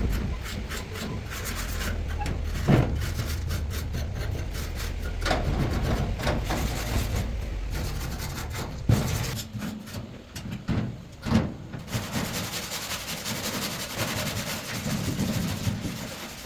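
Repeated scraping and rubbing strokes, like filing or sanding, with a few sharp knocks. A low hum underneath stops about halfway through.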